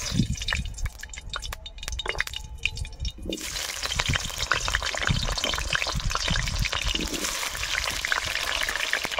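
Potato pieces sizzling and crackling in hot oil in a wok. For the first few seconds there are sparse pops and crackles. About three seconds in, as more pieces go into the oil, the sizzle turns into a dense, continuous hiss.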